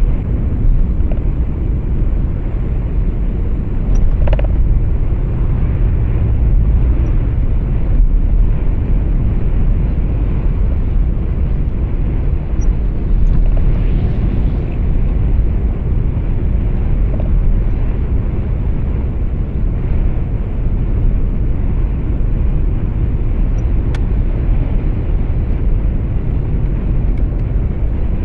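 Steady low rumble of engine and road noise inside a moving truck's cab.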